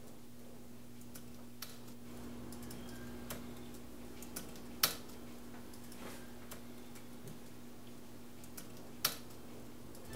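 Typing on a computer keyboard: scattered key taps, with two louder clicks about five seconds in and again about nine seconds in, over a steady low hum.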